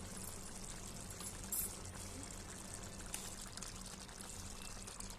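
Chicken curry simmering in the pan, with a faint steady bubbling sizzle over a low steady hum, and one short click about a second and a half in.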